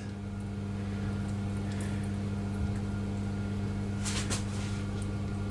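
A steady low electrical hum, as from a running kitchen appliance, with a brief soft rustle about four seconds in.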